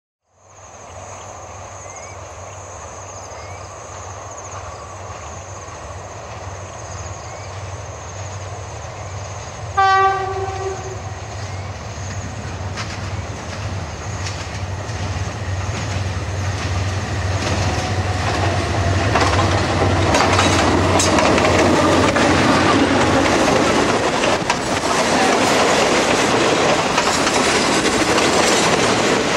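Thai diesel-hauled passenger train coming up to a level crossing: one horn blast of about a second, then the rumble and clickety-clack of the locomotive and carriages growing louder as they pass close by.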